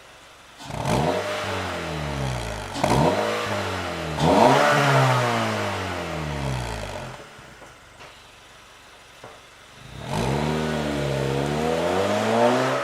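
Honda Fit RS (GK5) 1.5-litre four-cylinder through a COLBASSO Ti-C aftermarket exhaust, revved three times in quick succession, the pitch jumping up each time and sliding slowly back down. It falls quiet, then about ten seconds in it is revved again and held before dropping off at the very end.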